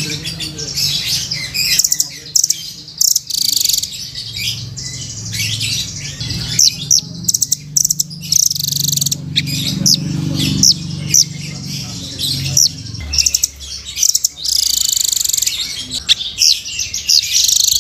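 Velvet-fronted nuthatch (rambatan) singing: rapid high trills and sharp chirps in repeated bursts, with longer unbroken trilling near the end. A low hum runs underneath through the middle.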